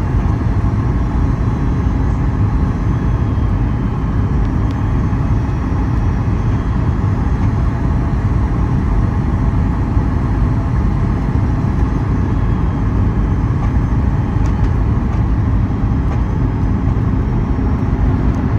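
Steady cabin rumble inside a Boeing 737 MAX 8 airliner: engine and airflow noise, even and unchanging.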